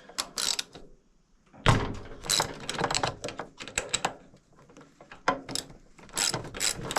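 Irregular metallic clicks and knocks of hand tools at work as a spark plug is taken out of a mower engine.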